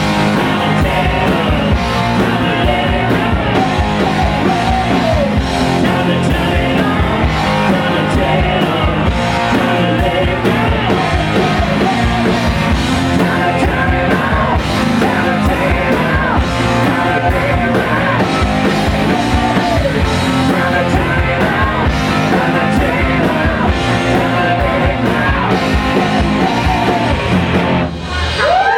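Rock band playing with singing over it, loud and steady, dipping briefly near the end.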